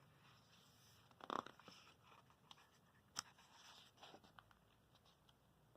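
Near silence: room tone with a few faint, brief handling noises, soft rustles and a sharp click about three seconds in.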